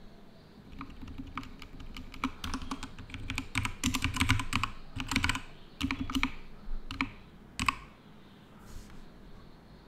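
Computer keyboard typing in quick, irregular runs of keystrokes, densest in the middle, ending with one sharp key press a couple of seconds before the end.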